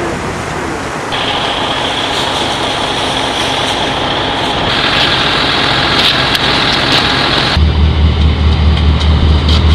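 Heavy vehicle engines running, with a steady hiss and a high whine. About three-quarters of the way through the sound switches abruptly to a louder, low throbbing engine that pulses several times a second.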